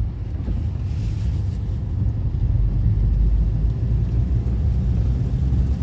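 Steady low rumble of a Honda Element's engine and tyres heard inside the cabin while cruising at about 40 mph.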